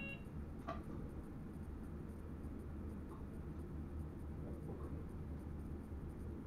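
Steady low rumble of an NS Sprinter Lighttrain electric train running along the track, heard inside the driver's cab, with a sharp click about a second in and a few faint ticks after it.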